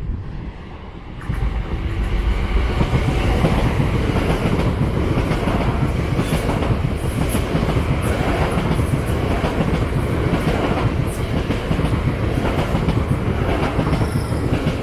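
Gatwick Express Class 387 electric multiple unit, three units coupled, passing through the station without stopping: a steady rumble of wheels on rail that swells about a second in, with a few clicks from the wheels.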